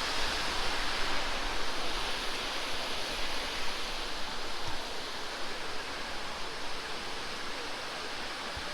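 Small waterfall pouring into a pool: a steady rush of falling water that eases a little toward the end.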